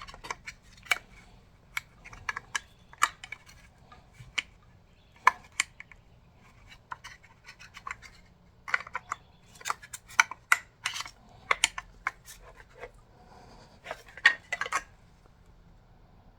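Hydraulic roller valve lifters being fitted into their guide trays in an LS 5.3 V8 block: scattered light clicks and short scrapes of metal on metal and plastic, in clusters.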